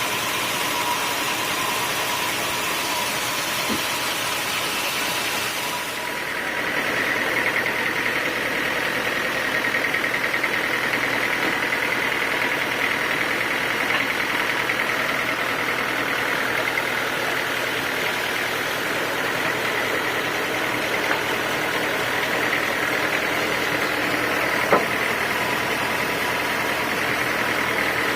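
Sawmill running steadily while sawing teak. About six seconds in the sound changes: the high hiss drops away and a steady high whine sets in.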